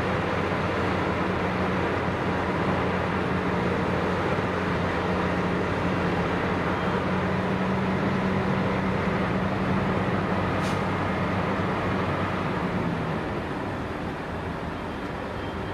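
A heavy snow-removal machine's engine running steadily, a constant low hum over a wash of mechanical noise. The hum eases off a little near the end.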